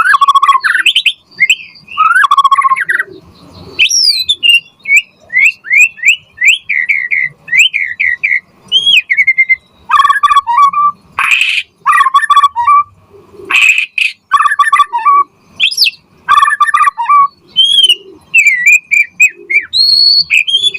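White-rumped shama singing a loud, varied song: runs of quick slurred whistles and rising and falling notes, with two short harsh notes about halfway through.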